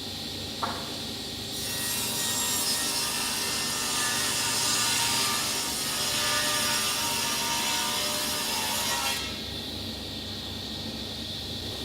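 Woodworking machine running, with a cut through Marri hardwood from about a second and a half in to about nine seconds: a loud even hiss of wood being cut over the machine's steady hum, which carries on alone once the cut ends.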